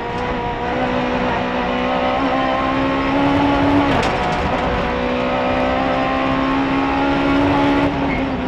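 Rally car engine heard from inside the cabin, pulling hard with its pitch climbing steadily. It dips briefly with a knock about halfway, climbs again, and drops near the end as the car shifts up into fifth gear.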